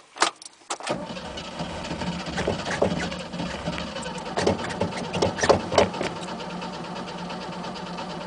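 The engine of an old 1967 Mercedes is being cranked on the starter from cold about a second in, turning over steadily without catching, with a few louder knocks along the way. It is a worn, hard-starting engine that has sat for months.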